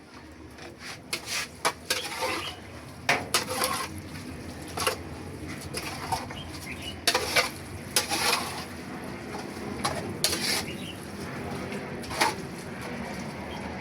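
A utensil clinking and scraping against a cooking pot of spaghetti, in irregular clatters that come in bunches about one to three, seven to eight and ten seconds in, over a steady low background noise.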